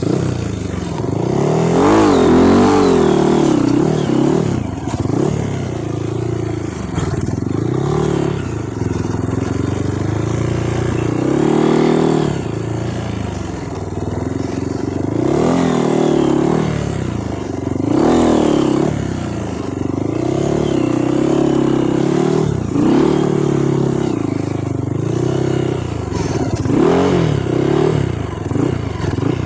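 Off-road trail motorcycle engine running under load, its pitch rising and falling again and again as the throttle is opened and closed.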